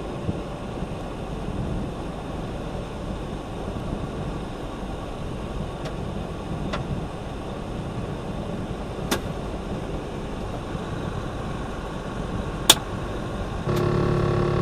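Steady road and engine noise of a truck driving, heard from inside the cab, with a few sharp clicks at intervals of about two to three seconds. Near the end a steady multi-toned sound starts, louder than the road noise.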